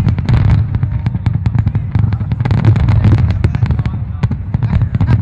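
Fireworks display: a dense, continuous barrage of bangs and crackles, several reports a second over a steady low rumble.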